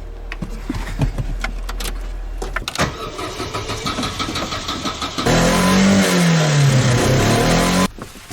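Opel Corsa petrol engine being cranked on the starter, stuttering and spitting as it fails to start properly. About five seconds in it fires and runs louder for a couple of seconds, its revs sagging and climbing again, then cuts off suddenly.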